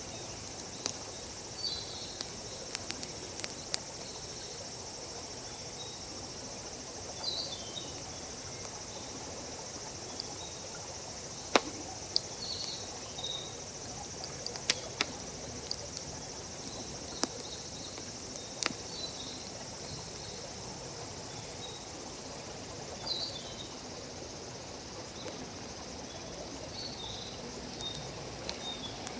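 Wood campfire crackling with scattered sharp pops, over a steady high insect drone, with short bird chirps repeating every few seconds.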